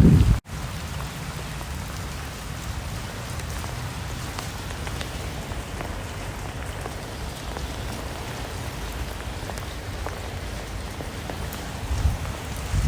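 Steady rain, an even hiss with occasional single drops ticking. It cuts in after a brief gap about half a second in.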